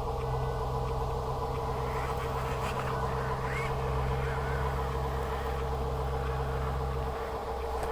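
A vehicle engine running at a steady speed, its low hum dropping away about seven seconds in, over a steady higher whine.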